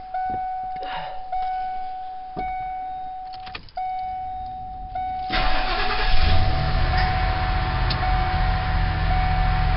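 Van's repeating warning chime with a few clicks, then about five seconds in the engine cranks, catches and settles into a steady idle. There is no belt squeal: the squeaky idler pulley has just been replaced.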